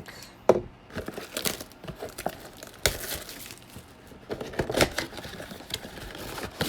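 Plastic trading-card pack wrappers crinkling and tearing as packs are handled and opened, in irregular rustles and clicks.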